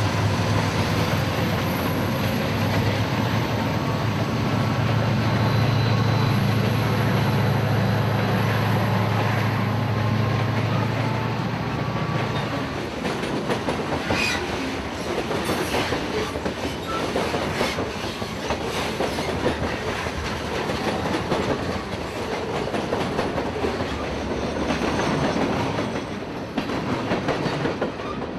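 A diesel-hauled freight train passing close by: the locomotives' engines drone low for the first dozen seconds, then the freight cars roll past with steady clicking of wheels over the rail joints.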